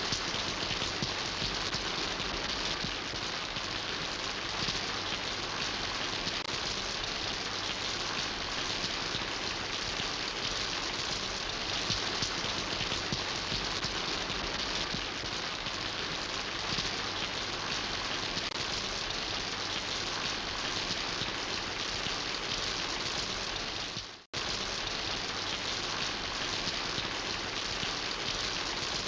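Steady rain falling, an even wash of many drops. About three-quarters of the way through the sound cuts out for a split second, then comes back unchanged.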